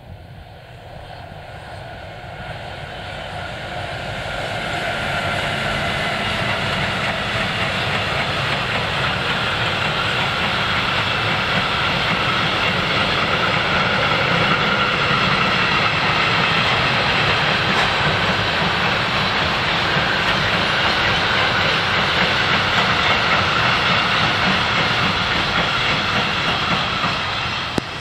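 Freight train of car-transporter wagons, hauled by a class 193 Siemens Vectron electric locomotive, rolling past. The rolling noise of the wheels on the rails swells over the first few seconds, holds steady as the long line of wagons passes, and drops off near the end.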